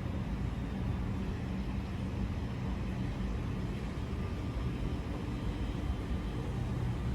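Steady low rumble and hum of an electric train at a station platform.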